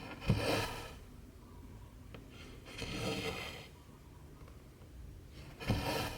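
Cotton embroidery thread pulled through cross-stitch fabric: three swishes about two and a half seconds apart, each starting sharply and fading away.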